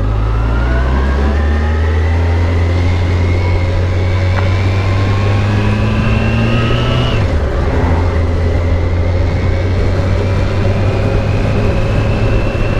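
Motorcycle engine pulling under acceleration, its pitch climbing steadily through a gear, then dropping sharply at a gear change about seven seconds in before climbing slowly again.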